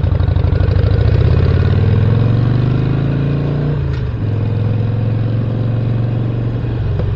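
Harley-Davidson Roadster's 1200 cc air-cooled V-twin with a Stage 1 intake and exhaust upgrade, running under way: it climbs in pitch for the first few seconds, then drops about four seconds in and runs steady at lower revs.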